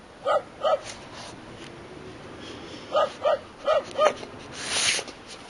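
A dog barking in short, high-pitched barks: two quick barks, then after a pause of about two seconds a run of four more. A brief hissing noise follows near the end.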